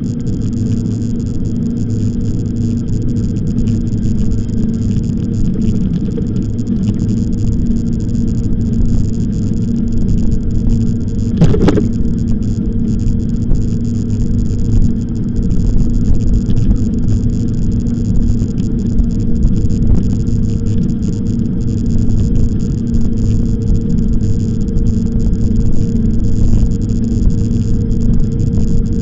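Steady rumbling riding noise from an e-bike on the move, with a single sharp knock about eleven and a half seconds in.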